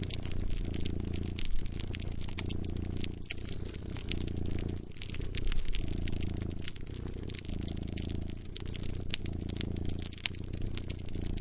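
A cat purring, its low purr swelling and easing with each breath about once a second, with a wood fire crackling in sharp pops and snaps over it.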